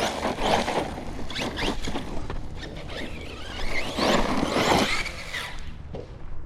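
Team Corally Kagama 6S RC car driving and revving, its motor whine rising and falling about four seconds in, over tyre noise and scattered clicks from the drivetrain. The driver suspects a broken differential that is skipping an occasional tooth.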